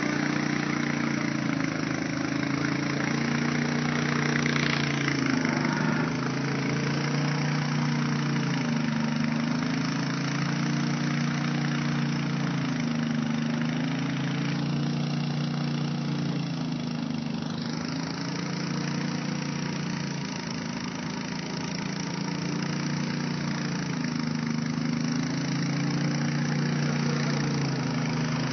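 An engine running steadily at idle, its pitch wavering slowly up and down.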